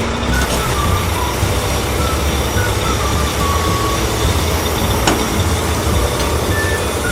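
Steady low engine rumble of an animated truck under a hiss, with a light tune of short high notes over it and a brief tick about five seconds in.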